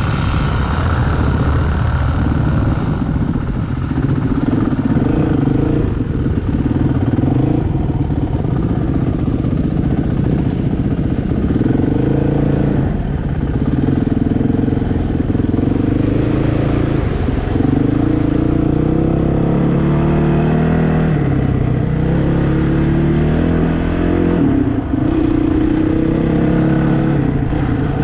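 Dirt bike engine running continuously while riding, its pitch rising and falling again and again with the throttle and gear changes.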